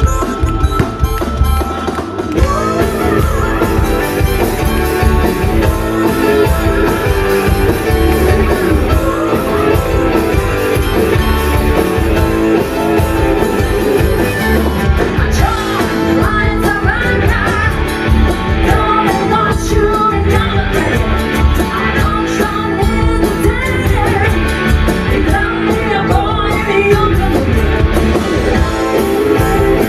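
Rock band playing live, with drums, electric guitar and bass and a steady beat; a voice singing over it in the second half.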